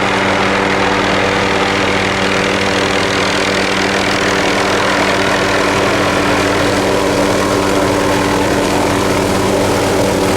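An engine running at a steady speed, loud and unchanging, with an even hum under a broad rushing noise; it cuts off abruptly at the end.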